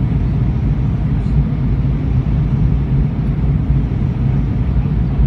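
Steady low rumble of an Airbus A319 in flight, engine and airflow noise heard inside the passenger cabin.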